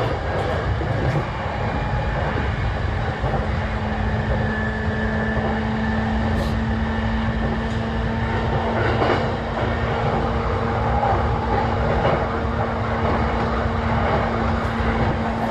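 Running sound of a JR East E233-7000 series electric train heard from inside one of its motor cars. The train runs at a steady speed, with a low rumble of wheels on rail under a steady hum.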